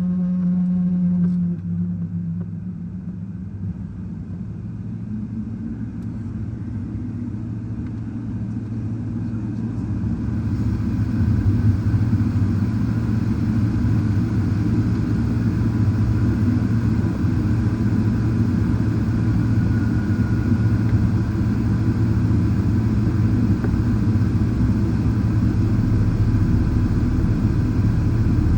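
Boeing 777-300ER cabin noise: a low steady rumble that grows louder about ten seconds in, with a faint steady high whine joining later.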